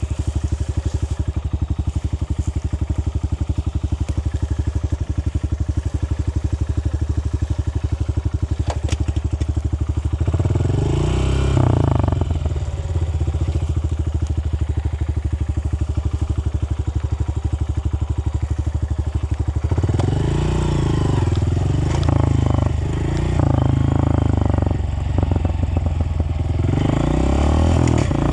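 Dirt bike engine idling with an even pulsing beat. About ten seconds in it revs up briefly, then settles back to idle. From about twenty seconds in it revs up and down repeatedly, as when riding off.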